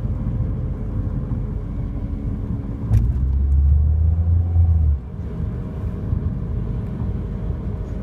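Audi B8 A4 running, with a steady whine from the front of the car over a low rumble. About three seconds in a click is followed by a louder, deep hum that lasts about two seconds and then cuts off suddenly.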